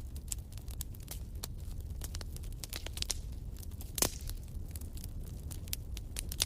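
Wood fire crackling in a fireplace: a steady run of irregular sharp snaps over the low rumble of the flames, with one louder pop about four seconds in.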